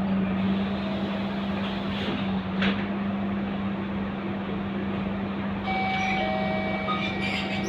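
Scania K230UB bus's five-cylinder diesel engine running with a steady hum and road noise; a short click comes about two and a half seconds in, and higher steady tones come in near the end.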